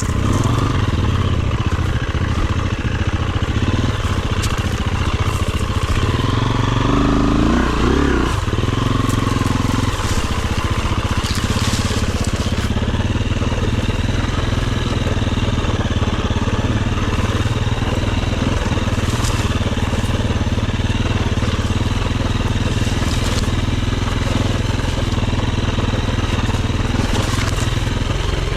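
Dirt bike engine running steadily on an enduro trail ride, with a brief rise and fall in revs about seven to nine seconds in.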